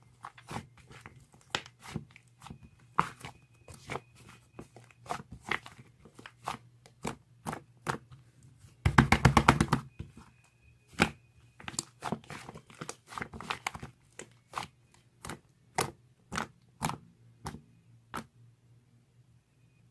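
Irregular sharp taps and clicks at close range, with a quick rattling run of many clicks about nine seconds in.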